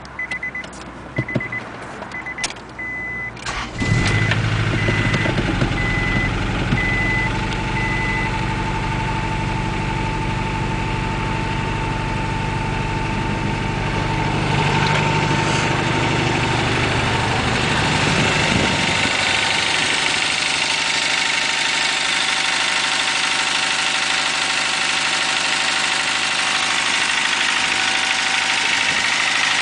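Turbocharged Honda H23A 2.3-litre four-cylinder cranking and catching about four seconds in, then idling steadily from a cold start, with a repeating beep for the first several seconds. Its cold running carries the noise that the owner calls typical of forged pistons when cold. About two-thirds of the way through, the deep low note drops away and a higher hiss takes over.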